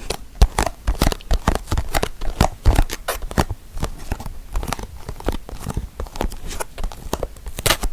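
Close-miked ASMR tapping and scratching on an object: a quick, irregular run of taps and scratches, several a second, with a louder one near the end.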